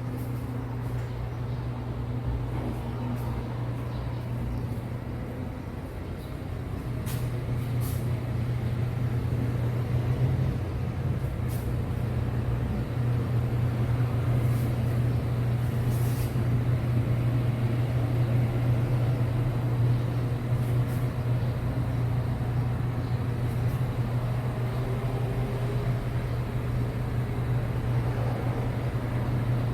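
A steady low mechanical hum, like a vehicle's engine running, growing louder about seven seconds in and then holding level.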